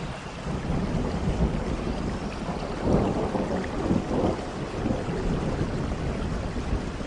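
Steady rain with a long roll of thunder that swells in at the start and is loudest about three to four seconds in.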